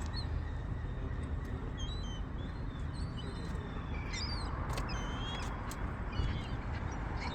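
Gulls calling: many short, overlapping calls from several birds over a steady rushing background noise.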